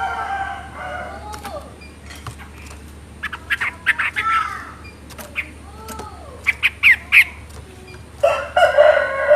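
Chinese hwamei (melodious laughingthrush) singing a varied song of whistled, slurred notes and quick sharp notes, building to a loud, dense phrase near the end.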